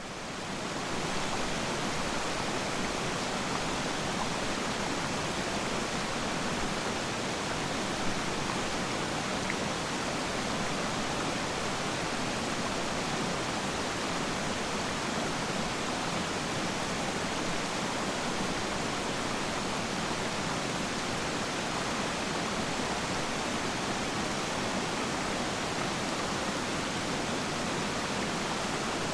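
Waterfall's steady rush of falling water, a dense even roar with no break, fading in at the very start.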